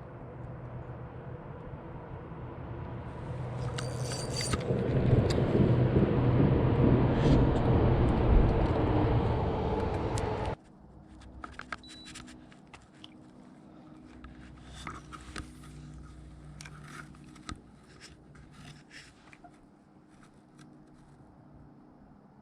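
A small boat motor running, with a steady hum under a rushing noise that grows louder for about ten seconds and then cuts off abruptly. A fainter hum follows, with scattered clicks and knocks.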